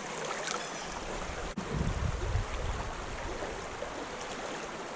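Creek water flowing in a steady rushing hiss, with a brief low rumble about two seconds in.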